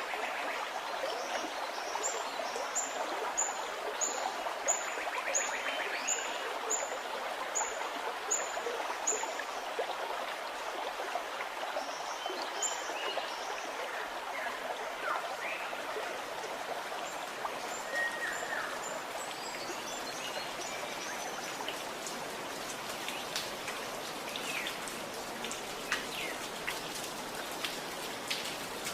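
Gurgling running water with birdsong over it. A bird repeats one short, very high note about ten times, roughly one every 0.7 s, then falls silent; a few scattered chirps follow.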